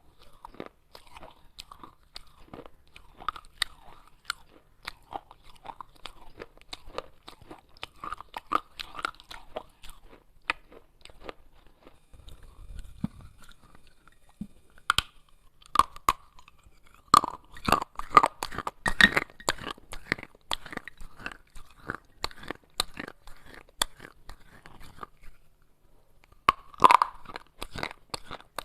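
A person biting and chewing pieces of clay pot: a dense run of sharp, gritty crunches, loudest in clusters a little past the middle and again near the end.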